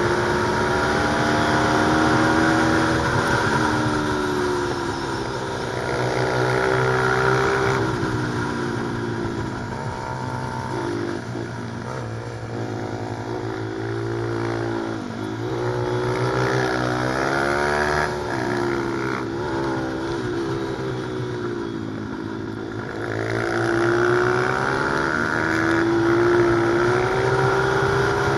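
Single-cylinder pit bike engine revving hard: its pitch climbs through each gear, drops at each shift or on braking, and climbs again, over and over.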